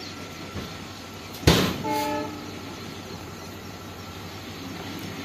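Indian Railways express train running with a steady rail noise. About a second and a half in there is a sudden loud thump, followed at once by a short train horn blast lasting about half a second.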